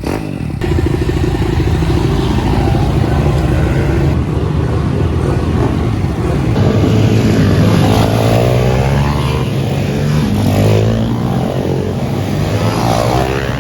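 Pit bike engines running and revving, their pitch rising and falling several times in the second half.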